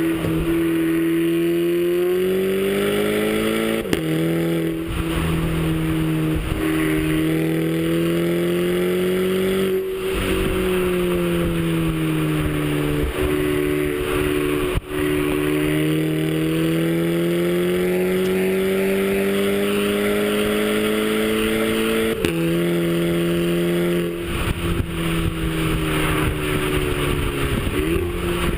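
Turbocharged Audi A3 TSI engine with an APR K04 turbo upgrade, running under way. Its pitch climbs slowly and drops sharply twice, as at upshifts, and eases down for a few seconds mid-way.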